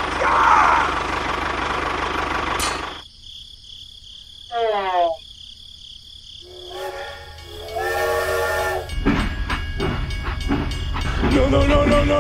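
Added sound effects: an engine running for the first few seconds, then a short falling whistle about four and a half seconds in, then a train whistle blowing for about two and a half seconds.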